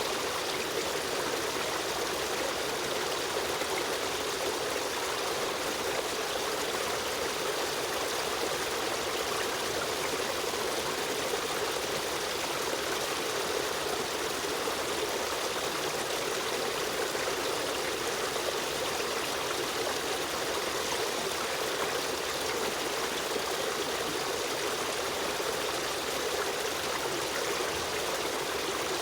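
A river stream running steadily over rocks, an even rush of water with a trickling edge.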